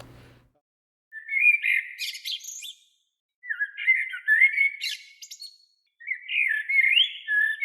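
A songbird singing three twittering, warbling phrases of about two seconds each, with short gaps between.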